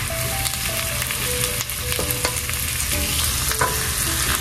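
A sofrito of chopped sausage, onion and peppers sizzling steadily in olive oil in a pan, while a spoon stirs it and knocks against the pan a few times.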